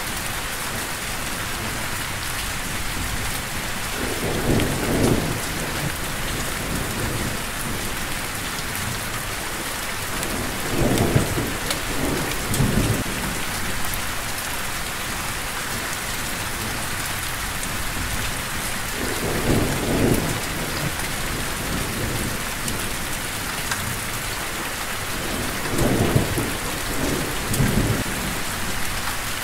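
Steady rain falling, with low rolls of thunder rumbling in four times.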